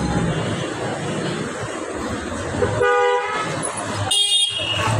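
Two short blasts of a vehicle horn, each with a steady pitch, the first a little under 3 seconds in and the second about a second later, over steady traffic noise.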